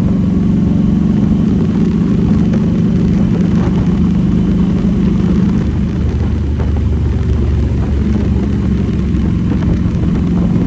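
Motorcycle engine running steadily under way, its note changing briefly a little past halfway before settling back.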